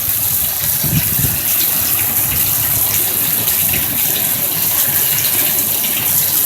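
Heavy rain and floodwater rushing through a street, a steady loud rush of water.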